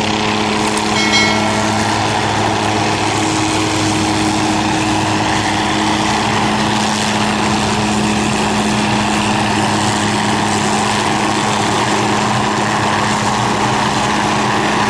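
Battery-powered toy helicopter running, a loud, steady whirring drone with a constant low hum.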